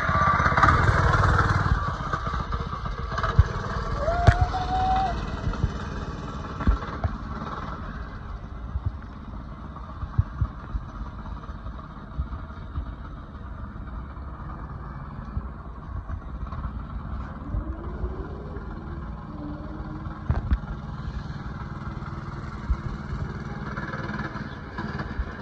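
A mini dirt bike's motor running as it is ridden, loudest for the first couple of seconds and then lower and steady, with scattered short knocks and clatter throughout.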